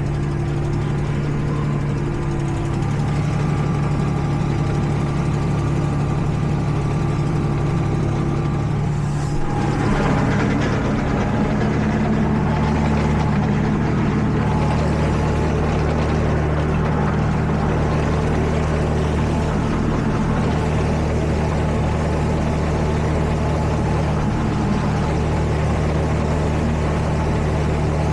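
Tractor engine running steadily while driving a PTO-powered topper mowing grass, its tone shifting slightly about ten seconds in.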